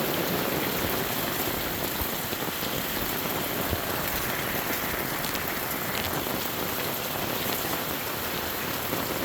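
Steady rain falling and pattering on the ground and nearby surfaces, an even hiss with a few faint drips and taps.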